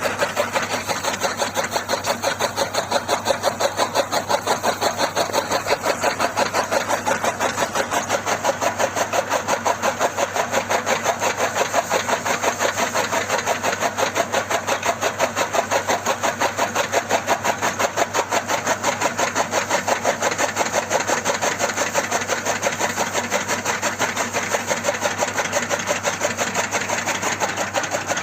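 Engine running steadily at a constant speed with a rapid, even chugging pulse.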